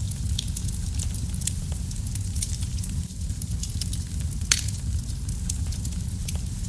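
Fire in a fireplace burning steadily with a low rumble and a dense run of small crackles, with one louder pop about four and a half seconds in.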